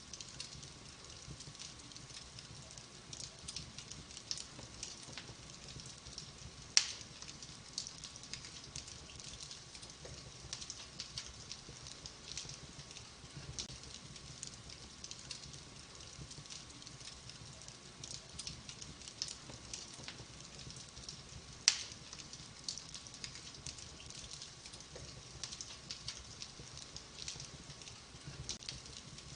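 Wood fire crackling in a fireplace: a steady stream of small crackles, with two sharp pops, one about seven seconds in and one about twenty-two seconds in.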